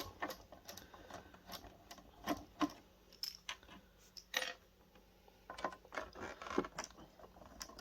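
Scattered light clicks and taps of a small screwdriver and plastic and metal parts being handled while screws are taken out of a projector's circuit board, with a small cluster of quick clicks near the end.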